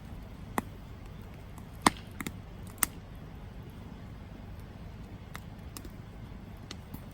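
Campfire crackling: a steady low rumble of burning wood broken by a few sharp pops, the loudest about two seconds in, then only scattered faint ticks.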